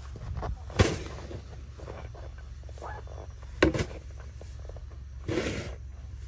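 Snow shovel working in deep snow: a sharp strike about a second in, another near four seconds, and a longer scrape near the end, over a steady low hum.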